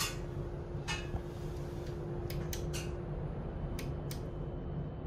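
Škoda RegioPanter electric multiple unit running, heard from inside the passenger car: a steady low rumble with a steady hum that stops about two-thirds through. Over it come sharp light clicks, three in quick succession past the middle and two more near the end.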